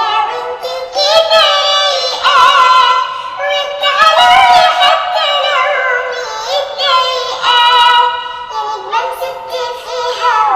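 Cat meows digitally pitched and tuned into a sung sholawat melody. The notes are high and processed, running one after another over music.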